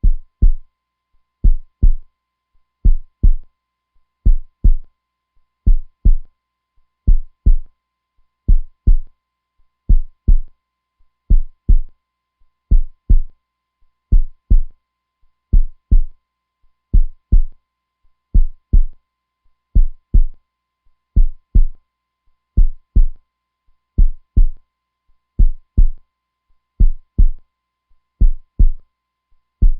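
Heartbeat sound, a slow, steady lub-dub of paired deep thumps, about 41 beats a minute.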